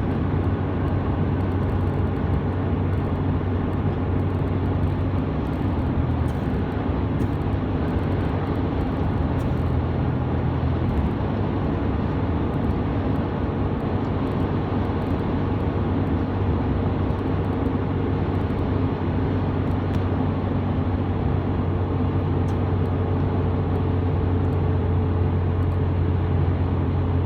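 Steady road noise inside a truck's cab at highway speed: the engine's low hum under tyre and wind noise, unchanging throughout.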